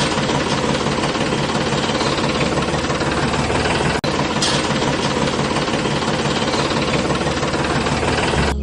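An engine running steadily with a fast knocking beat, cut off for an instant about halfway through.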